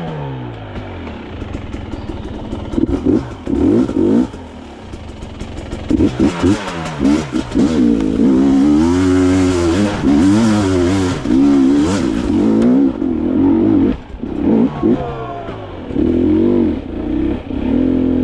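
Dirt bike engine revving up and down under changing throttle, pitch climbing and falling repeatedly, with brief drops where the throttle is shut about four seconds in and again near fourteen seconds.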